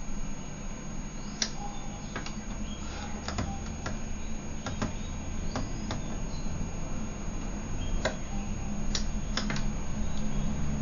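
Gala GL605T washing machine running: a steady low hum, heavier from about two and a half seconds in, with a dozen or so sharp clicks and knocks at irregular intervals.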